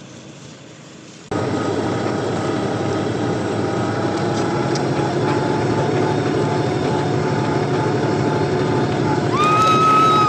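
Tractor engine running steadily under load, starting abruptly about a second in. Near the end a long high-pitched tone rises, holds for about a second and falls away.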